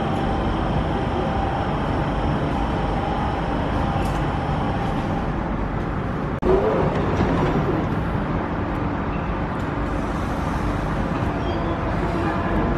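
London Underground 1992 Stock train running, a steady rumble with a faint motor whine that shifts in pitch. The sound breaks off abruptly about halfway through and picks straight up again.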